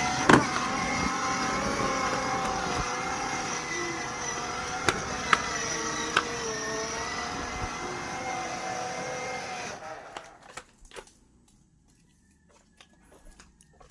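Toy motorcycle running with a steady pitched hum that wavers slightly and fades a little, then cuts off about ten seconds in. A few sharp clicks come along the way, and faint clicks follow.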